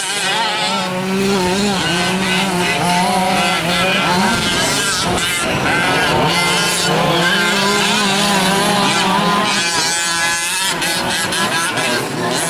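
Several 1/5-scale gas-powered RC trucks racing, their small two-stroke engines buzzing and revving up and down over one another as they lap the track, over a steady low hum.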